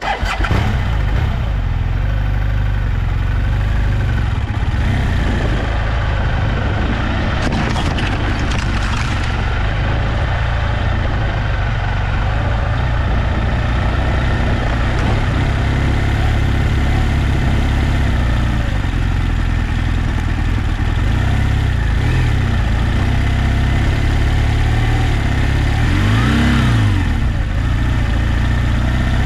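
Adventure motorcycle engine comes on suddenly and runs steadily with a heavy low rumble, with one rev rising and falling near the end.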